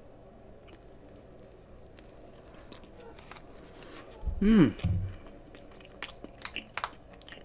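Close-miked chewing of a cheeseburger, with wet clicks and smacks of the mouth and lips. About four seconds in comes the loudest moment: a short hum of the voice that rises then falls in pitch, followed by a few sharp mouth clicks.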